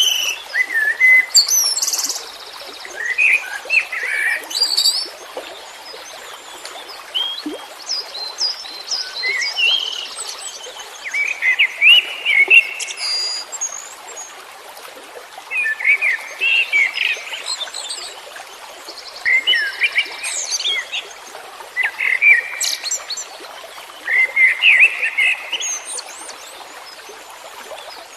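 Songbirds singing: short, quick phrases of chirps and whistled notes, some high and some lower, repeating every few seconds over a steady background hiss.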